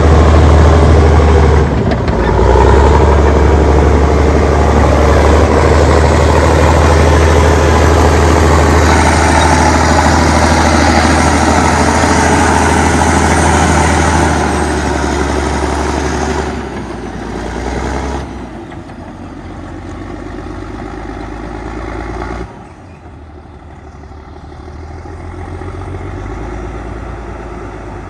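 Allis-Chalmers HD-21 crawler dozer's diesel engine running loud and steady, then easing down in steps through the last half.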